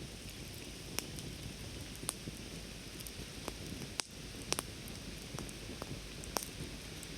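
Campfire burning with a steady hiss and irregular sharp crackles and pops, roughly one or two a second.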